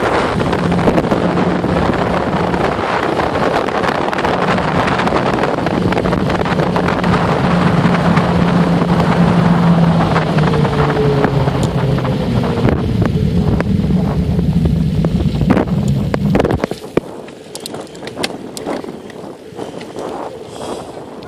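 Wind rushing over the microphone and road noise of a bicycle being ridden, with a steady low hum, cutting off sharply about seventeen seconds in as the bike slows. After that, a quieter stretch with a few sharp clicks.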